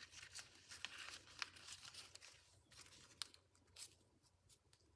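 Faint crinkling and crackling of a paper sheet being folded and creased by hand, as short scattered crackles that thin out in the second half.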